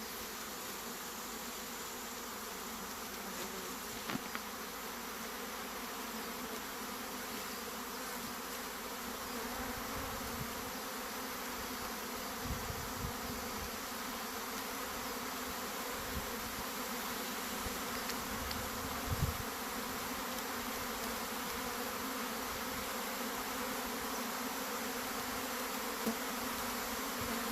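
A honey bee swarm buzzing: the steady, dense hum of many bees in flight, with a few soft thumps at intervals.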